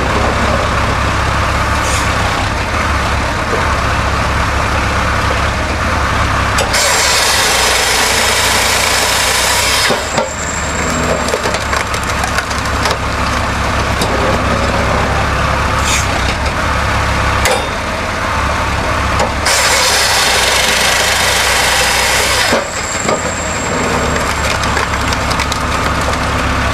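Engine-driven wood-processing machine running steadily, with two loud bursts of about three seconds each as it cuts into wood, one about seven seconds in and one about twenty seconds in.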